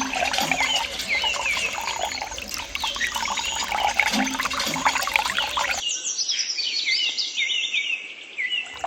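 Small birds chirping busily in many short, quick calls, with scattered light clicks and taps underneath. About six seconds in, the background noise cuts out suddenly and only the chirping remains.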